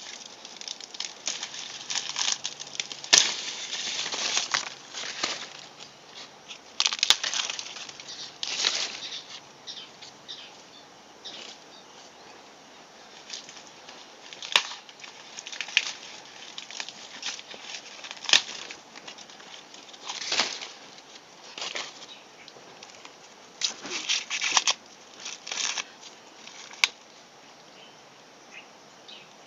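Crisp crackling, rustling and crunching from a fresh ear of corn, in irregular bursts with a few sharp snaps.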